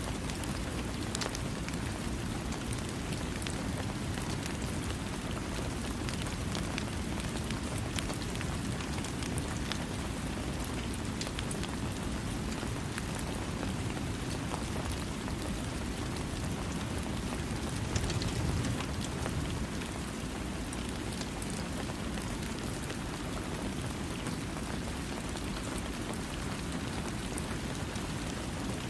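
Steady rain falling, a dense, even hiss heaviest in the low range, with scattered individual drops ticking through it and a brief louder swell about two-thirds of the way through.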